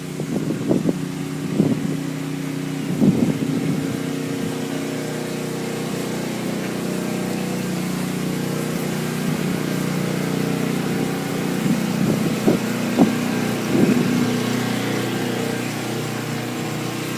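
A car's engine running steadily at low speed, a constant hum, with a few short knocks.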